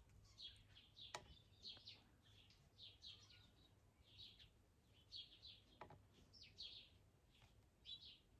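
Faint birdsong: a small bird repeating short, high chirps, about two a second, with a couple of faint clicks about one second and six seconds in.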